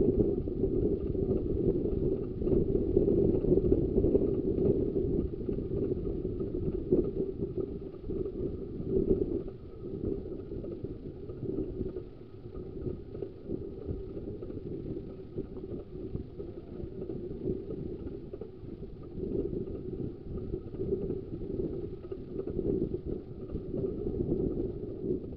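Steady rumble and rattle of a 15-inch-gauge railway carriage running along the track, easing somewhat about ten seconds in.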